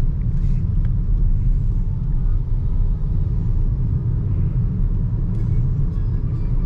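Steady low rumble of tyre and road noise from a BYD Seagull electric car cruising on an expressway.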